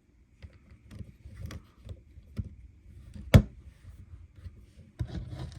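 Small plastic LEGO pieces being handled and fitted together: scattered light clicks and rustles, with one sharp, loud click a little over three seconds in.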